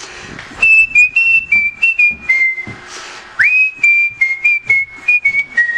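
A person whistling a tune: two short phrases of stepping notes, the second opening with an upward slide.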